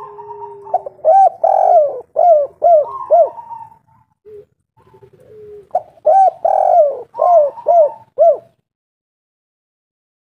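Spotted dove cooing in two phrases, the second about five seconds after the first. Each phrase is a drawn-out opening note followed by a quick run of short rising-and-falling coos.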